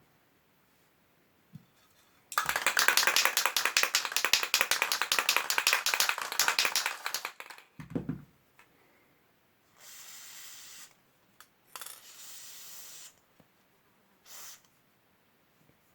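An aerosol can being shaken, its mixing ball rattling rapidly for about five seconds. A short knock follows, then three sprays of hiss, the last one brief: lubricant or cleaner being sprayed, as for a dirty, creaking pedal thread.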